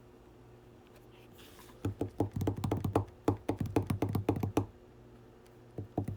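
Typing on a computer keyboard: a quick run of key clicks lasting a few seconds, starting about two seconds in, with a few more clicks near the end.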